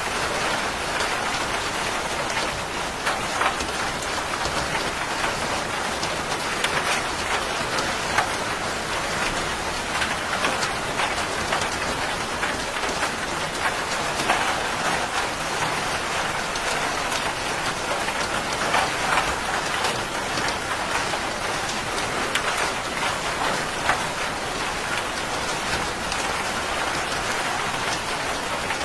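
Steady heavy rain pattering on a surface, with many individual drop hits over an even hiss.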